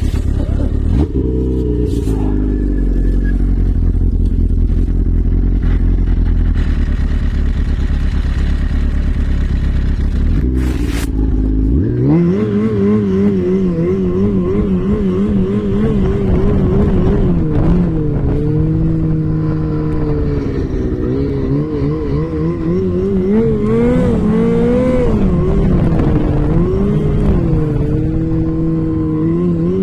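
Off-road vehicle engine running: a deep, steady rumble for about the first twelve seconds, then the engine note rises and falls unevenly again and again as the revs change.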